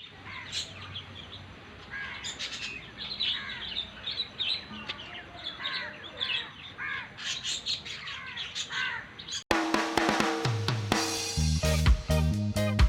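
Small birds chirping and calling, many quick, repeated chirps, for about nine and a half seconds. Then an abrupt cut to music with a drum beat, bass and plucked guitar.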